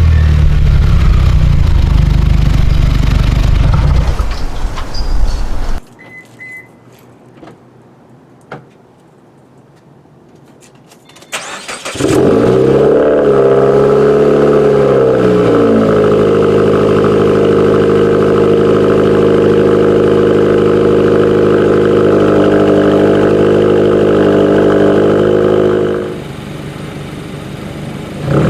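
2017 Subaru Forester XT's turbocharged flat-four engine through an aftermarket Nameless Performance exhaust. It is running loudly at first and then goes quiet. About twelve seconds in it starts with a flare of revs that falls over a few seconds and settles into a steady cold-start idle, which is quieter for the last couple of seconds.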